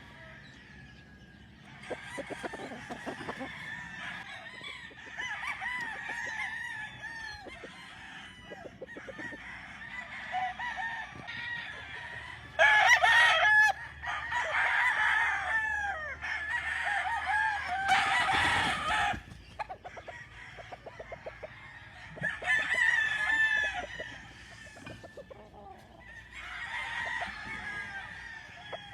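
Several roosters crowing one after another, with hens clucking between the crows. The loudest crows come about halfway through and again around 18 seconds in.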